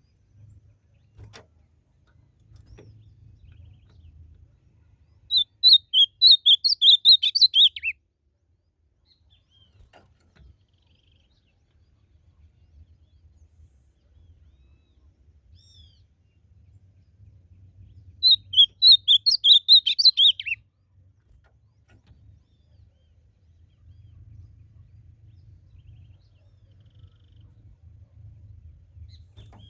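Ultramarine grosbeak (azulão) singing: two loud, rapid warbled song phrases, each about two and a half seconds long and ending on a falling note, the second coming about thirteen seconds after the first.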